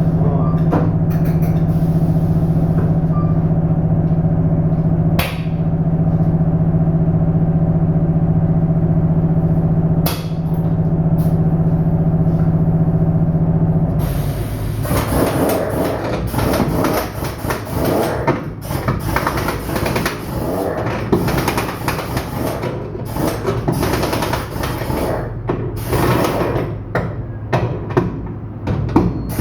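A steady engine hum with two sharp knocks, which stops about halfway through and gives way to irregular clattering and knocking.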